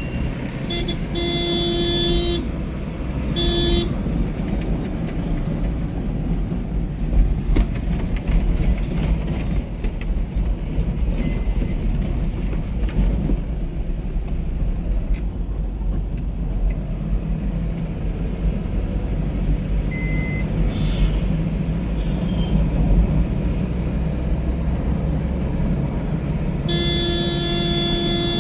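Road traffic noise with a steady low rumble. A vehicle horn sounds in several short blasts over the first few seconds, then in one longer blast near the end.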